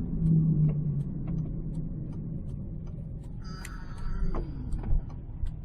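Steady low road and drivetrain rumble inside the cabin of a 2006 Ford Escape Hybrid under way, with a low hum that is strongest in the first second. The hum is unchanged after a wheel-bearing swap, so the owner rules out the wheel bearing and wonders about a carrier bearing or the transmission. A brief higher-pitched tone sounds about three and a half seconds in.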